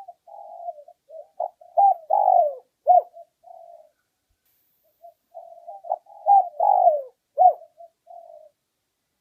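Spotted dove cooing: two song phrases about five seconds apart, each a few soft notes building to loud, falling coos and ending in a softer trailing note. It is a decoy dove's territorial call, used to draw wild doves in to fight.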